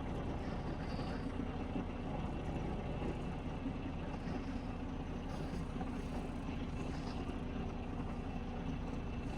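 Truck engine idling, a steady unchanging hum.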